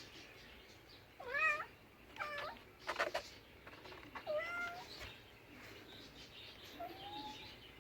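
Domestic cat meowing: three short meows in the first half and a fainter one near the end, with a brief noisy burst about three seconds in.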